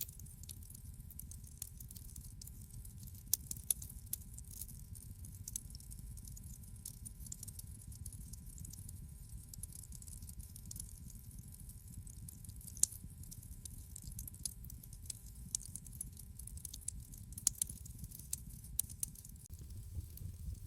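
Wood fire crackling in a fireplace: irregular sharp pops and snaps over a steady low rumble of the flames, with one louder pop a little past halfway.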